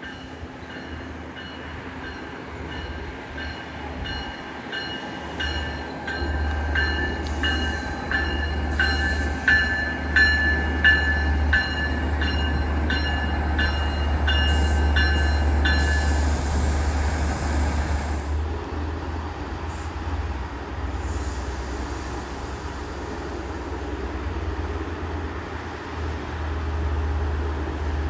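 Passenger train pulling into the station, its engine rumbling low and steady, while a bell rings at an even pace for roughly the first sixteen seconds, with brief hisses in between.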